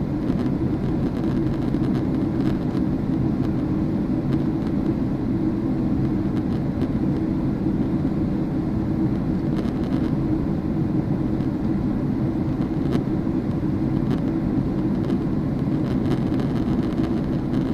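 Steady drone of an airliner's engines and rushing airflow heard from inside the passenger cabin, shortly after takeoff.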